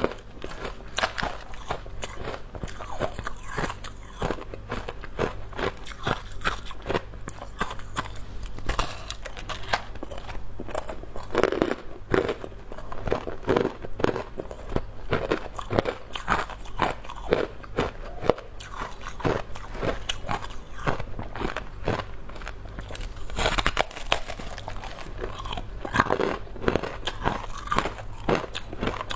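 Hard ice being bitten and chewed, a close, continuous run of sharp crunches.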